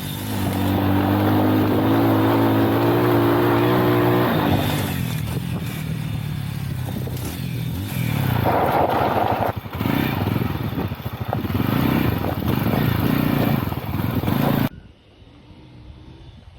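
Motorcycle engine running and revving: a steady pitch for a few seconds, then uneven rises and falls in pitch. The sound cuts off sharply near the end.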